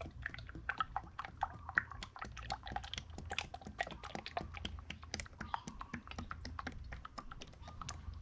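Engine oil glugging out of a bottle into a funnel at the oil filler, a dense run of irregular little pops and clicks over a steady low hum.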